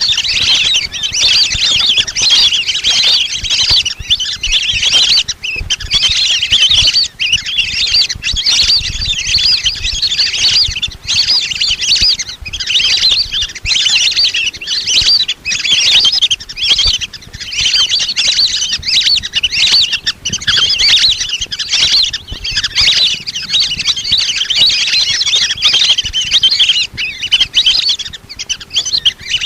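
A flock of lesser whistling ducks calling: many high, thin whistles and chirps overlapping in a dense, unbroken chorus.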